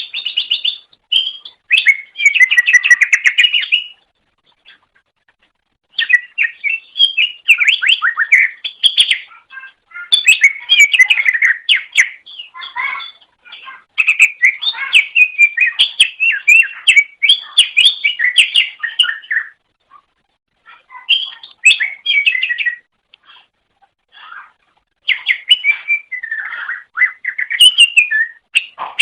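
Cucak ijo (green leafbird) singing loud phrases of rapid, varied chirps and trills, with pauses of a second or two between phrases.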